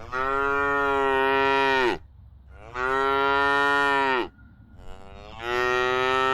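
Cow mooing three times, each moo a long call of about two seconds, the first two falling in pitch at the end.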